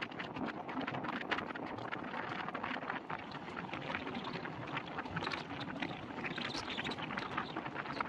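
Moving passenger train: wheels and coaches rattling and clattering along the track in a steady run of rapid clicks, with wind buffeting the microphone at the open door.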